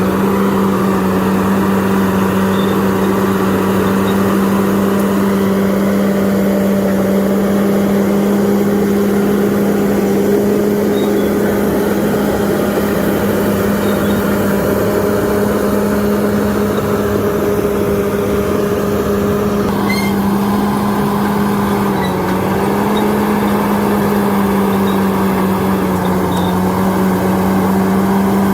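Heavy earthmoving machine's diesel engine running steadily under high revs, its pitch sagging briefly about three-quarters of the way through before recovering.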